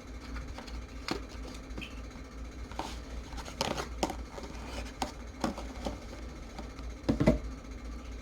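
Scattered light clicks and taps of small tools and parts being handled at a workbench, with a somewhat louder knock about seven seconds in, over a steady low electrical hum.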